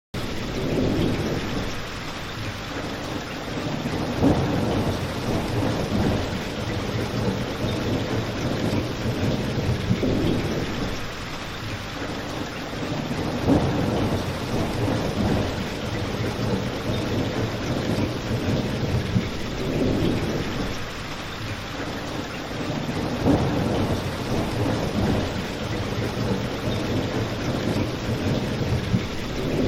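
Steady rain falling, with low rumbling swells that rise and fade every few seconds.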